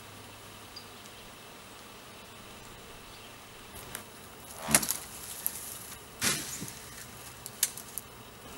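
Faint steady buzzing of honeybees around a swarm. Two loud, sudden rustling noises come about halfway through, and a couple of sharp clicks near the end.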